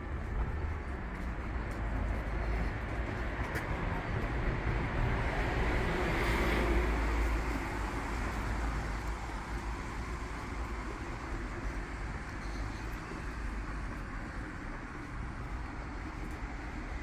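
Street traffic noise, with a vehicle passing by and growing loudest about six to seven seconds in.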